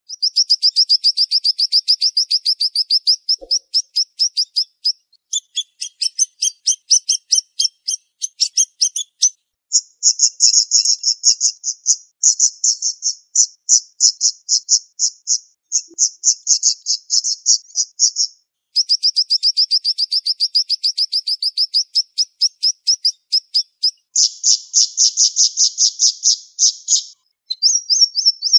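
Siri-siri songbird singing fast, tightly packed runs of sharp, high chirps, many notes a second, each run lasting a few seconds with short breaks between.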